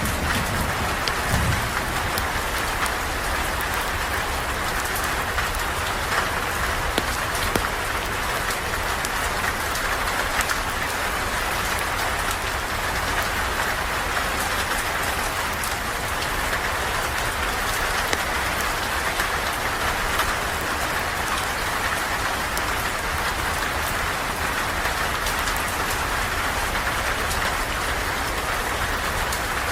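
Steady, even rain falling, with a brief low rumble in the first second or so.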